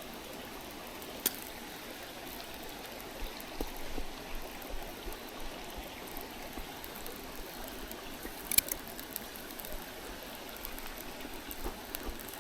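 Mountain stream flowing steadily, an even rushing babble of water. A couple of sharp clicks stand out, one about a second in and one about two-thirds of the way through.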